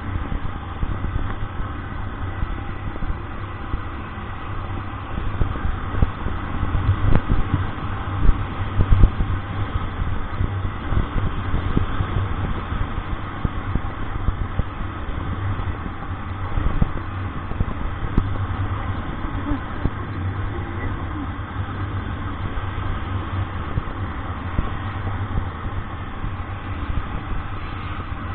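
A motor vehicle's engine running steadily on the move, a continuous low hum with road noise that swells briefly about seven to nine seconds in.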